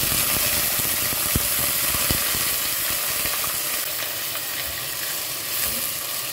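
Ground onion paste frying in hot cooking oil in a pot: a loud, steady sizzle that eases slightly toward the end, with a couple of light clicks.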